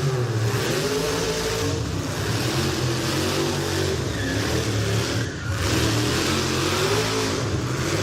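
High-powered car engine revving, its pitch dropping and climbing again several times, loud and continuous, most likely the 1500 hp Rolls-Royce.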